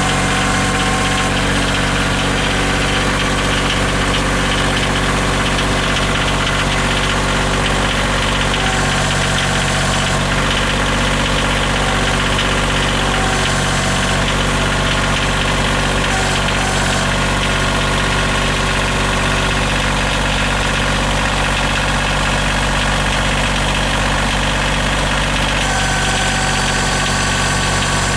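An engine idling steadily at an unchanging speed.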